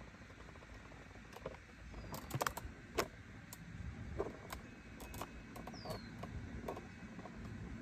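Quiet outdoor ambience: scattered soft clicks and ticks over a low rumble, with a few brief high falling chirps from small birds.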